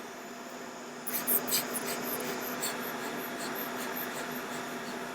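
A cluster of light clicks and scrapes from small hand tools handled at an electronics soldering bench, starting about a second in and thinning to a few scattered ticks, over a steady hum.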